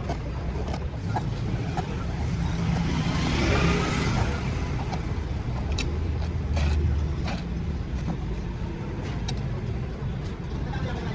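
A steady low engine rumble, with a vehicle passing that swells and fades about three to four seconds in, and scattered light clicks and taps.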